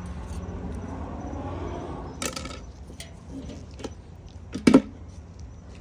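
A few sharp clicks and knocks of metal parts being handled, the loudest a single clack about three quarters of the way through, over a steady low hum.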